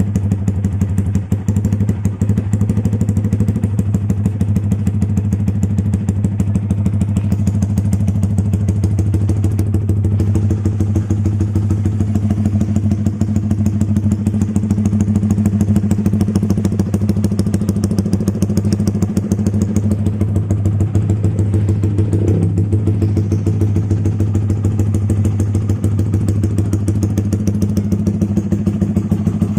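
Yamaha Vixion's single-cylinder four-stroke engine idling steadily through an Austin Racing aftermarket exhaust, an even, loud exhaust note.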